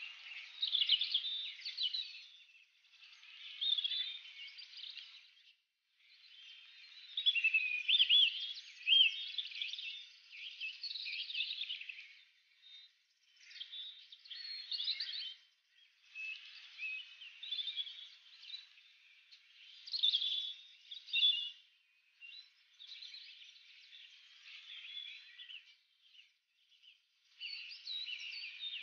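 Birds chirping and whistling in bouts of a few seconds, with quick rising and falling notes and short pauses between bouts.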